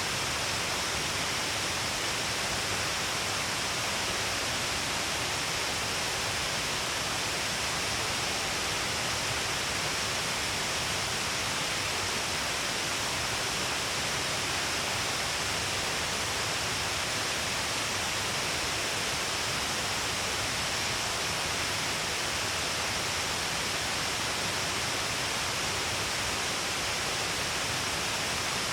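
Steady, unbroken rush of a wide curtain waterfall, many streams of water falling all along a cliff face.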